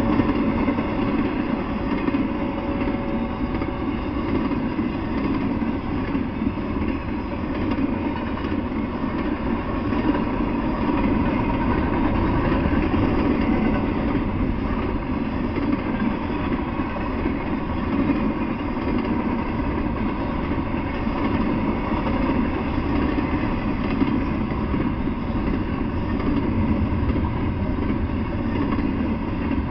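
Double-stack intermodal freight train passing at a steady speed: the continuous noise of the container well cars' steel wheels running on the rails.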